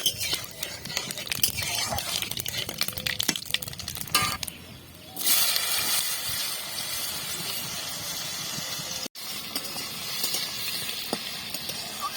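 Mustard oil tempering with nigella seeds, whole cumin and chillies: the seeds crackle and spit for the first few seconds. From about five seconds in comes a steady, louder sizzle, broken by a brief cut out of sound near nine seconds.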